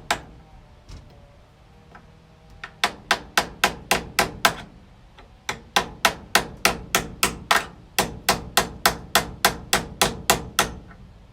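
A hammer striking a metal hand tool (a punch or screwdriver driven in to work loose fixings that are lifting up). There is one blow at the start, a quick run of about seven blows, a short pause, then a steady run of about twenty blows at roughly four a second.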